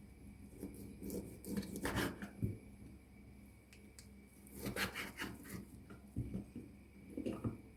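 Kitchen handling sounds: rubbing and scraping with small knocks, coming in three bursts, the middle and first ones the longest.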